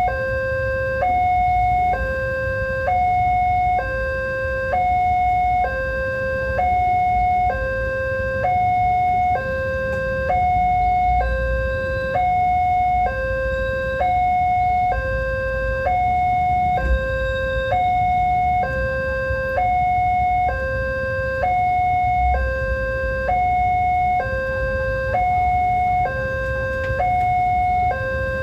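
Railway level-crossing warning alarm sounding: a two-tone electronic hi-lo signal, each tone held about a second and alternating steadily, with a low rumble underneath.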